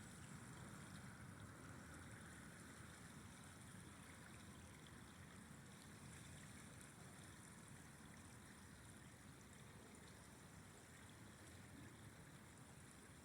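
Faint, steady rushing of a flowing river.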